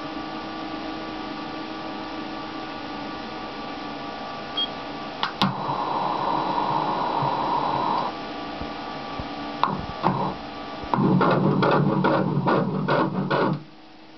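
Ultrasound machine hum, then the Doppler audio of a fetal heartbeat: a fast, rhythmic pulsing of about three beats a second starting about three-quarters of the way in and cutting off suddenly near the end.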